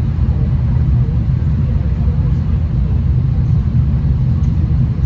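V/Line passenger train running along the track, heard as a steady low rumble from the running gear and engine.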